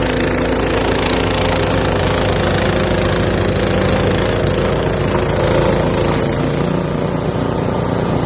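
An engine running steadily at an even speed, with a constant droning hum throughout.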